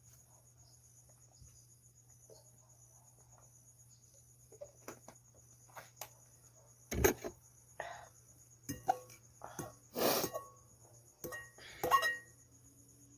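Close-up eating sounds: scattered clicks and knocks of utensils against dishes, mixed with mouth sounds, starting about four seconds in and loudest in the last few seconds. A faint steady pulsing chirp of crickets or other night insects runs underneath.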